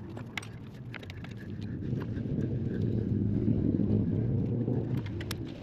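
Sawmill engine turning over on its starter without catching: a low, pulsing rumble that swells about two seconds in and eases off near the end, among scattered sharp clicks.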